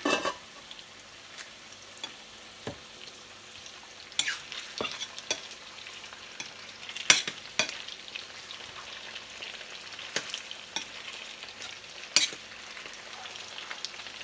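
Covered pot of chicken kaldereta sizzling on the stove: a steady faint hiss with scattered sharp pops and ticks about every second or two. A sharp knock right at the start.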